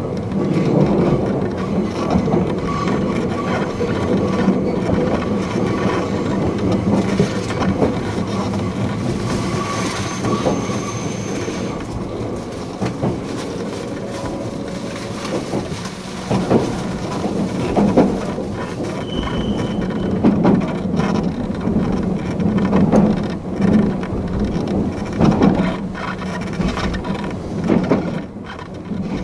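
Fujikyu 8500 series electric train heard from inside its cab while running, with a steady motor and running hum. From about halfway through, the wheels clack over rail joints every second or two.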